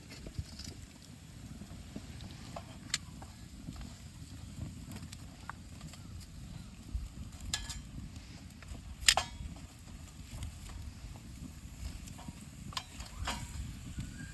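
Campfire cooking with an iron frying pan: scattered sharp clicks and crackles over a low rumble, the loudest click about nine seconds in.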